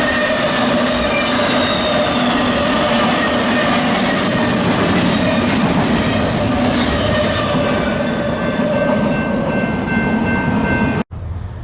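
Freight train rolling past close by, a steady loud rush of wheels on rail with some high held squealing tones. It cuts off abruptly near the end, giving way to wind on the microphone.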